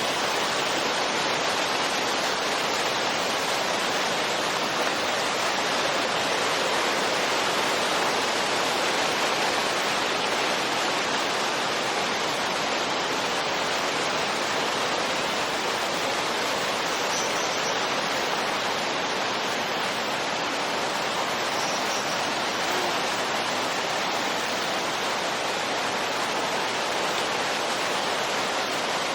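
Steady wind noise: an even, continuous rushing hiss that holds its level with no gusts.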